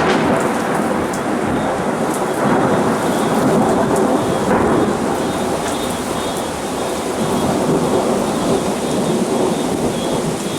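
Heavy downpour in a severe thunderstorm, loud and steady, with thunder rolling through it.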